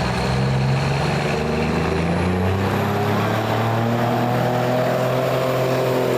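Pulling vehicle's engine running hard under load. Its note climbs in the second half, and a thin high whine joins it about two seconds in.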